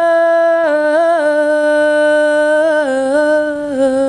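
A lone unaccompanied singer holds one long sung note that steps down slightly in pitch two or three times toward the end.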